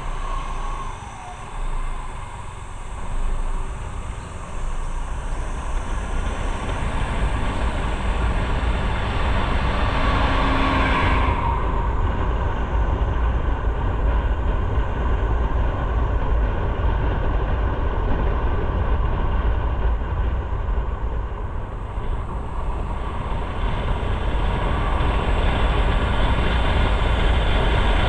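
Motorcycle on the move: steady engine, road and wind noise, with heavy low wind rumble on the microphone. It gets louder over the first several seconds and then holds steady.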